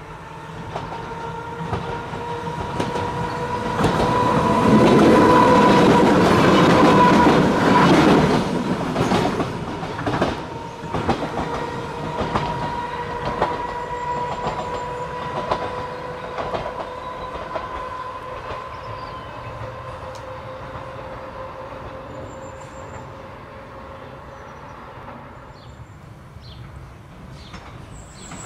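Island Line Class 484 electric train passing, loudest about four to eight seconds in, with a steady high whine and a run of wheel clicks over rail joints as it draws away and fades.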